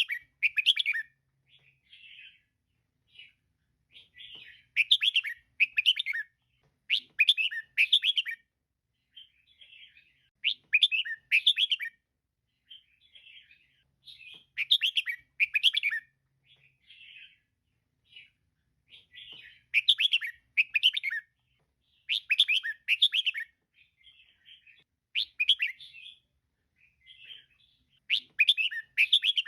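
Female red-whiskered bulbul calling: clusters of quick chirping notes repeated every two to three seconds, with softer chirps in between.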